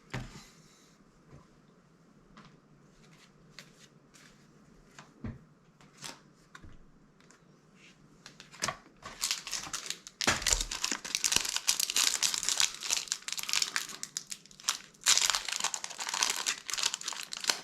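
Faint scattered clicks of cards being handled, then, about halfway through, a Magic: The Gathering booster pack's foil wrapper crinkling loudly as it is torn open and handled. The crinkling stops briefly and then starts again.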